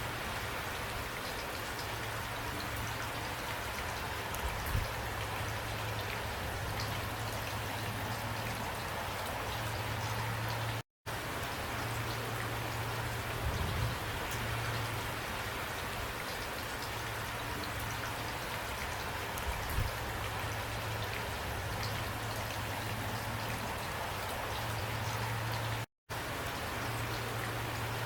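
Steady rain falling on a surface, with a constant low rumble beneath it and a few louder single drops. The sound cuts out completely for an instant twice, once about eleven seconds in and again near the end.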